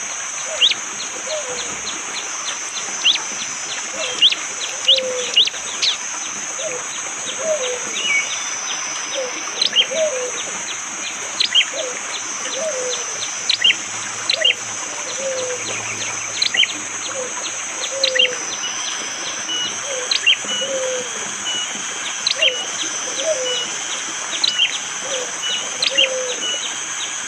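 Prenjak jali bird giving its hard, sharp "shot" calls: short, quick high notes repeated about once a second. Under them a steady high drone runs throughout, and lower short down-slurred notes repeat at a similar pace.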